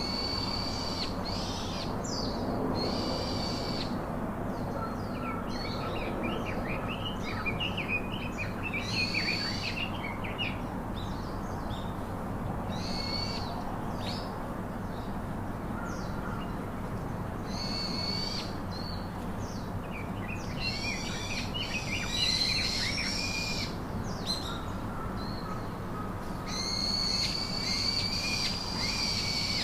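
Wild birds singing: clear high song phrases about a second long, repeated every few seconds, with spells of quick twittering between them, over a steady background hiss.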